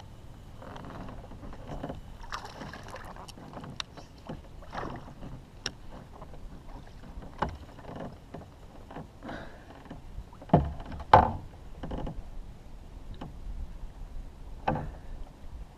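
Light knocks and clicks on a kayak as gear is handled, with two louder thuds about ten and eleven seconds in and another near the end.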